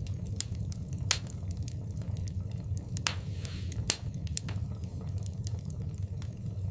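Fireplace fire crackling, with many sharp pops over a low steady rumble. Two louder pops come about a second in and just before four seconds, with a brief hiss around three seconds.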